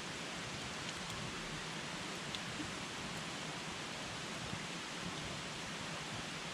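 Wood campfire burning: a steady hiss with a few small crackles and pops from the burning wood.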